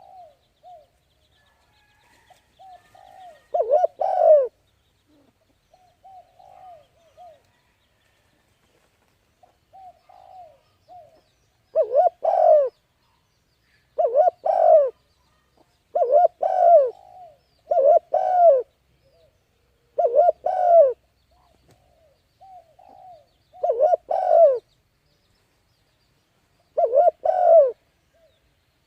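Pigeon or dove cooing: repeated phrases of low, arching coos, with softer, shorter coos in between. The calls come sparsely at first and then about every two seconds for the second half.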